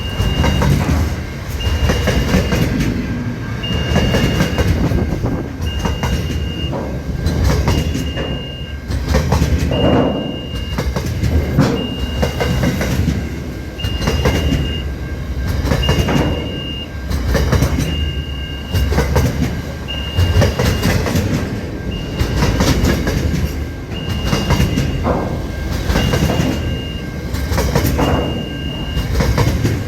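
Freight train wagons rolling past, a steady low rumble with wheels clacking over rail joints in clusters about every two seconds. A high beeping tone repeats throughout, about one second on and one second off.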